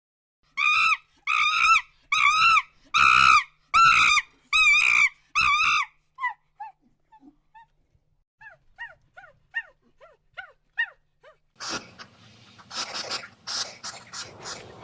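Animal calls: seven evenly spaced, pitched yelping calls in the first six seconds, then a run of faint, short, falling peeps, then rustling, snuffling and clicking noises from near the end.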